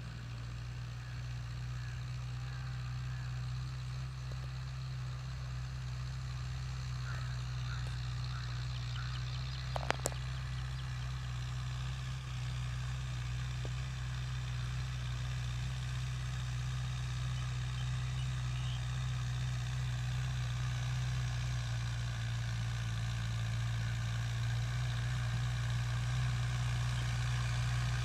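Mahindra 575 DI tractor's four-cylinder diesel engine running at a steady speed, slowly growing louder, with a brief sharp click about a third of the way through.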